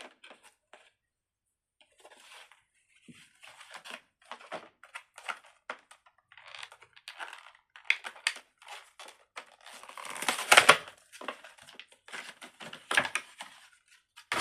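Fidget toys being handled and played with: irregular crinkling, rustling and clicking noises, loudest about ten to eleven seconds in.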